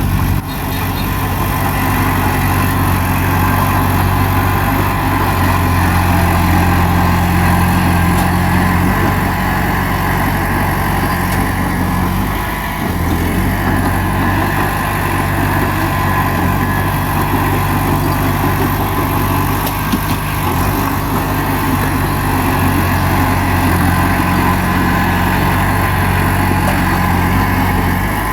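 Bulldozer's heavy diesel engine running steadily under working load, its low drone swelling for a few seconds around a quarter of the way in and again near the end, with a brief dip about halfway through.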